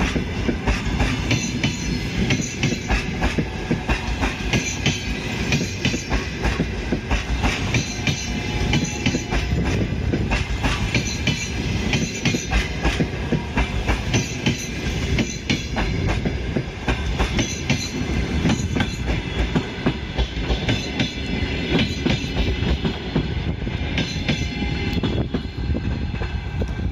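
Passenger coaches of an arriving express train rolling past, their wheels clattering over the rail joints in a steady run of clicks and knocks.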